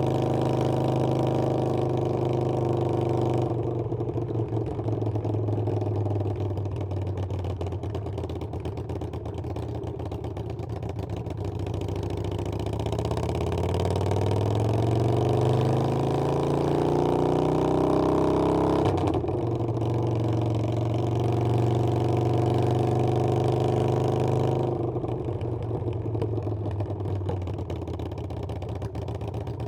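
Harley-Davidson Sportster Iron 883's air-cooled V-twin running under way. It eases off a few seconds in, then pulls with a rising pitch from about twelve seconds until a gear change just before twenty seconds, runs steady, and eases off again near the end.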